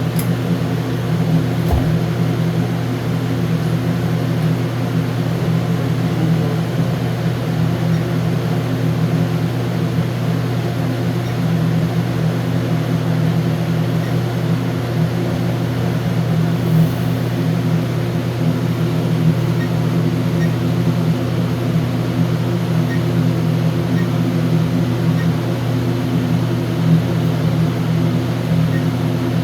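Steady low mechanical hum with several constant tones, like a motor or ventilation unit running, and a few faint short beeps in the second half.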